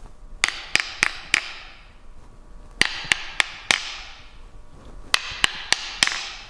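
Sharp, woodblock-like taps on a hard object, tapping out a woodpecker-style rhythm. There are three groups of four evenly spaced taps, about three taps a second, with a short pause between groups.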